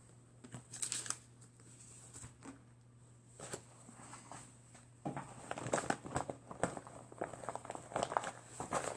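Rustling and crinkling handling noises with scattered clicks, growing busier about five seconds in, over a faint steady hum.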